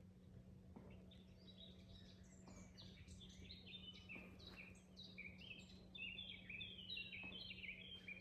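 Faint chirping and twittering of small songbirds, a few scattered notes at first, then a quick run of short chirps that grows busier toward the end. A steady low hum sits underneath.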